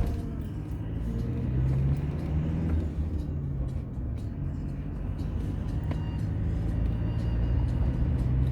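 A car's engine and road noise on the move: a steady low drone whose pitch shifts a little now and then.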